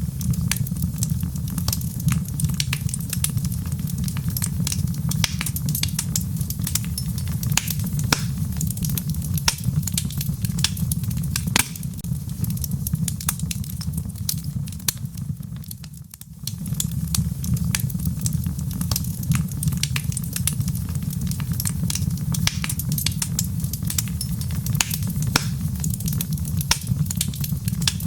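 Wood fire in a fireplace crackling, with a steady low rumble of the flames under frequent sharp pops and snaps. The sound dips briefly a little past halfway, then picks up again.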